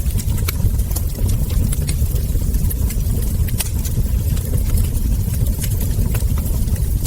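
Wood fire crackling: irregular sharp pops and snaps, about one or two a second, over a steady low rumble of burning logs.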